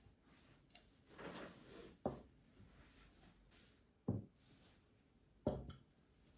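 A brief rustle, then three short knocks about two seconds apart, the last followed by a lighter tap, as objects are handled and set down.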